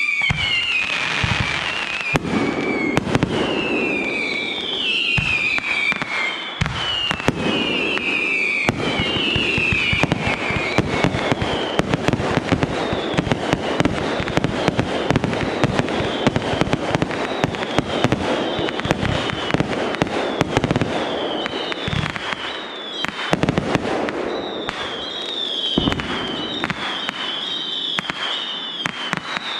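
Fireworks display going off in rapid succession: a dense barrage of bangs and crackling, with repeated falling whistles through the first ten seconds or so and shorter whistles again near the end.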